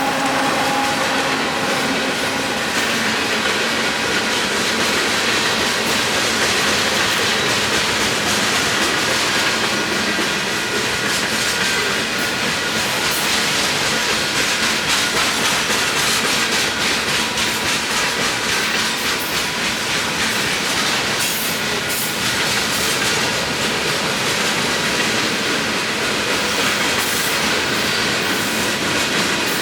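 Union Pacific freight train rolling past: a steady rumble of steel wheels on the rails, with scattered clicks as the wheels cross rail joints.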